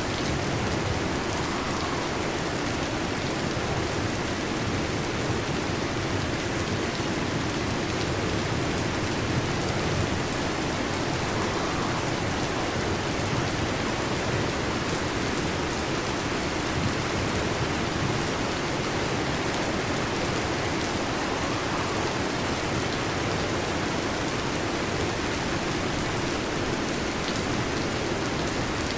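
Heavy rain drumming steadily on a metal roof, an even dense patter with no break.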